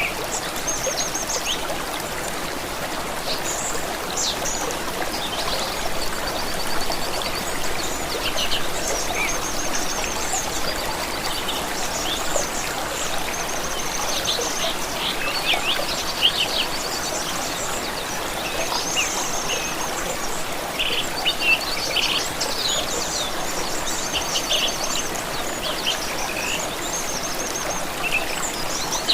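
Running stream water with several songbirds singing over it: many short chirps, trills and quick repeated notes throughout.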